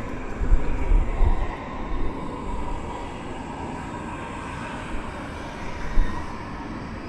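Jet airliner engines running with a steady rushing sound and a faint whine, with wind buffeting the microphone in the first second or so and a short knock about six seconds in.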